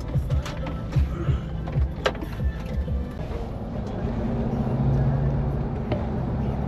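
A run of short low knocks, then a vehicle engine's steady low hum comes in about four seconds in, with background music.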